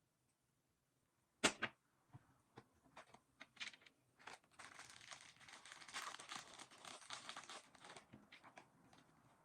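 A sharp click about one and a half seconds in, then small handling clicks and a few seconds of crinkling and rustling as thin material is handled.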